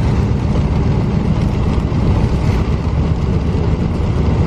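A car driving through heavy rain: a steady low rumble of road and engine noise, with the hiss of rain and wet tyres.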